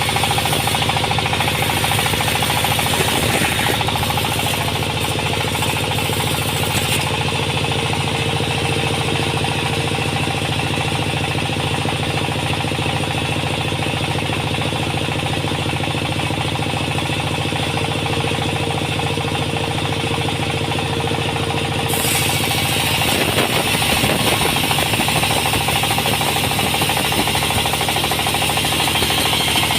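Sawmill machinery running steadily, an engine note with a fast, even pulse. The higher hiss drops away about seven seconds in and comes back at about twenty-two seconds.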